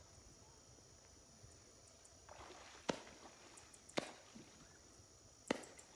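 Three sharp, short knocks, the first two about a second apart and the third a second and a half later, over a faint outdoor background with a steady thin high-pitched whine.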